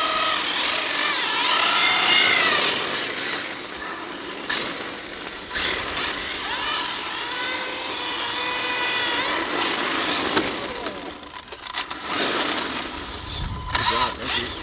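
Brushless electric motors of 1/8-scale RC drift cars whining, pitch rising and falling again and again as the throttle is blipped through the drifts, over a hiss of tyres sliding on pavement.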